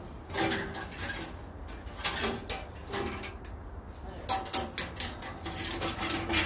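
Scattered clicks and knocks of metal parts being handled while a resaw blade is fitted on a 14-inch bandsaw.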